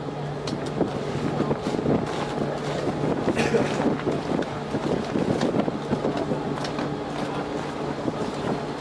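A boat's engine running with a steady low hum, under wind buffeting the microphone.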